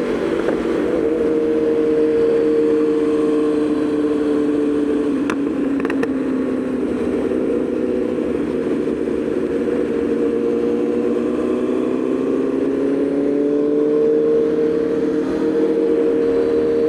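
Aprilia Tuono V4 motorcycle's V4 engine running at a steady cruise under way. Its pitch sags a little through the middle and rises again near the end as the speed changes.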